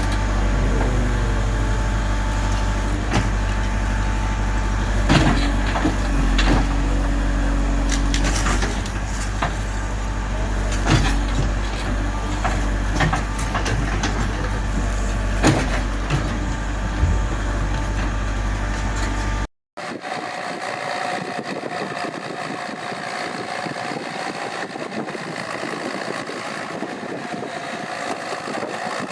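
Heavy machine engine, most likely a backhoe loader's diesel, running steadily with a deep hum and scattered knocks and clanks. About two-thirds of the way through, the sound cuts abruptly to a different, thinner engine noise without the deep hum.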